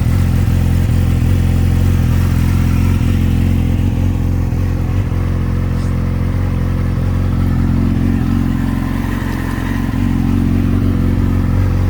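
Yamaha YZF-R6's 599 cc inline-four engine idling steadily through a LeoVince slip-on exhaust, with the stock catalytic converter still fitted.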